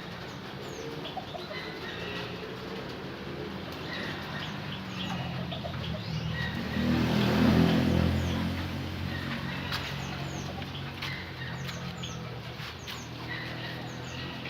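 Canaries giving short, high chirps, scattered throughout. Under them runs a steady low hum that swells loudly for a couple of seconds around the middle and then dies back.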